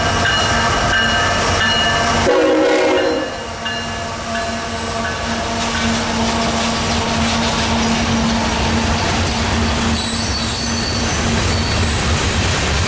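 CSX freight train passing close by: diesel locomotives drive past with a steady drone, a horn sounding briefly about two seconds in. Then the loaded rumble and clatter of freight cars rolling by, with touches of wheel squeal.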